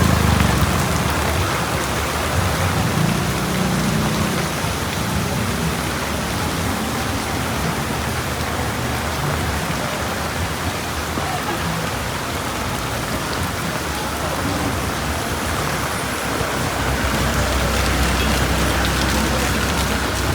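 Heavy rain falling steadily, an even hiss. A low rumble comes through in the first few seconds and again near the end.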